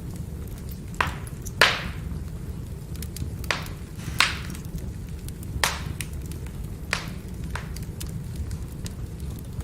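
Firewood burning with a steady low rumble, the logs crackling with faint ticks and about seven sharp, loud pops spread irregularly through it.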